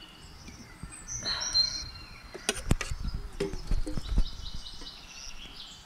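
Birds chirping in the background, with a hissy rush about a second in and then a quick run of knocks and clinks for a couple of seconds as buffalo ghee is spooned into a cooking pot.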